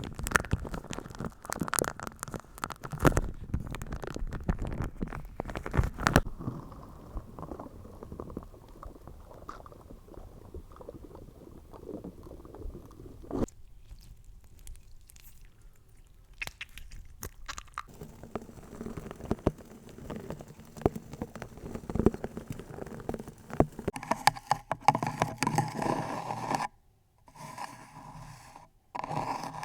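Close-miked ASMR triggers: dense crackling, tapping and clicking, changing to a new texture every few seconds.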